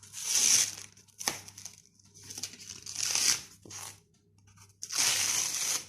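Adhesive tape being peeled off paper in three long rips, each about a second, with a few small clicks between them.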